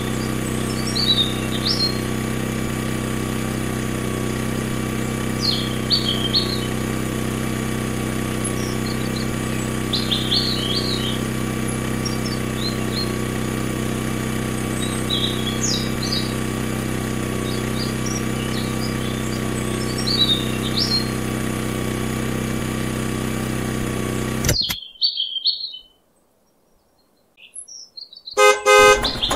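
Small electric motor driving a miniature oil press through its gears, running with a steady hum, while birds chirp briefly every few seconds. The sound cuts off suddenly near the end, and a rapid rattling starts just before it ends.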